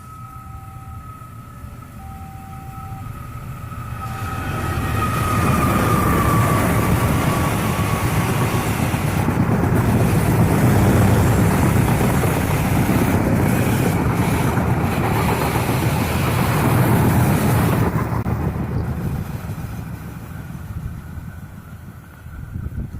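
A passenger train hauled by two diesel locomotives passes at full power. Its rumble builds from about four seconds in, with a tone that falls in pitch as the locomotives go by, then stays loud for over ten seconds as the cars pass and fades away near the end. A repeating beeping warning tone sounds over the first few seconds.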